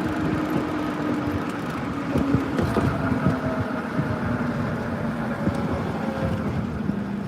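Car engine and road noise from a moving vehicle, the engine note slowly falling as the car slows to pull over and stop.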